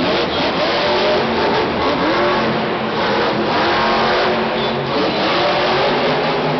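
Monster truck's supercharged V8 engine revving hard, its pitch climbing and dropping several times as the throttle is worked.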